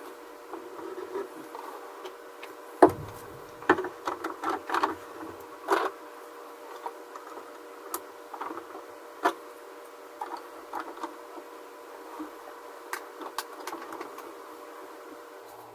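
Irregular clicks and knocks of hard 3D-printed PLA parts being handled and fitted together, the loudest about three seconds in with a cluster soon after, over a steady machine hum.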